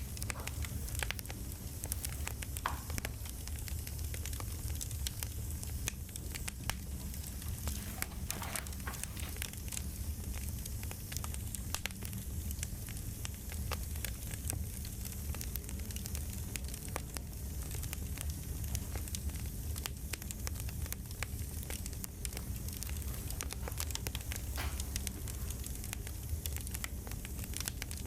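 Campfire crackling steadily: a low rumble of the flames under many small irregular pops and snaps.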